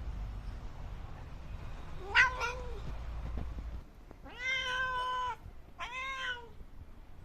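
Domestic cat meowing three times: a short, sharp call about two seconds in, then a long held meow and a shorter one that falls away at the end.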